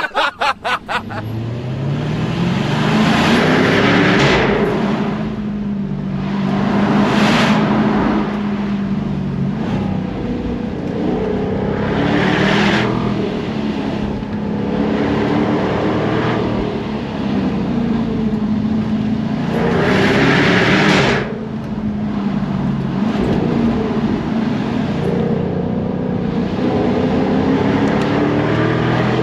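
Jaguar F-Type R's supercharged V8 pulling hard on a winding road, its engine note climbing in pitch and dropping back again and again as it works through the gears, with a few short louder bursts of exhaust and road noise.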